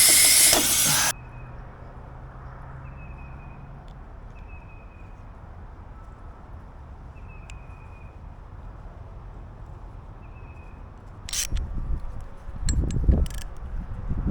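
Compressed air hissing out of an air-suspension line just pulled from the trailer's leveling valve, cutting off suddenly about a second in. After a quiet stretch, sharp clinks and low thumps of parts being handled come near the end.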